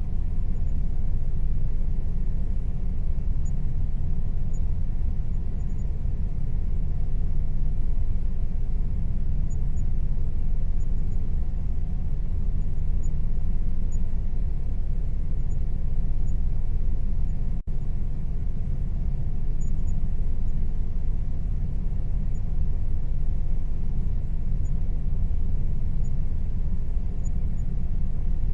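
Air conditioner running with a steady low hum and a faint tone held above it. The sound breaks off for an instant about two-thirds of the way through.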